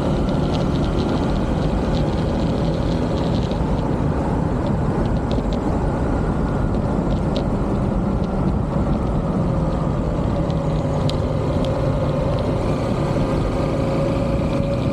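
Motorbike engine running steadily while riding, with wind rushing over the microphone. The engine's pitch sags a little around the middle and rises again near the end.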